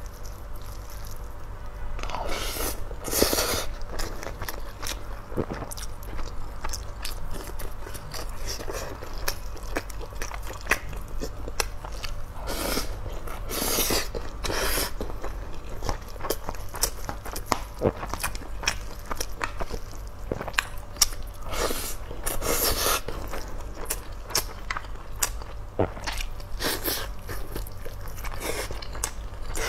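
Close-miked eating: chewing and biting on braised meat and rice, with wet mouth clicks and a few louder bursts of chewing or spoon-mixing in a steel pot.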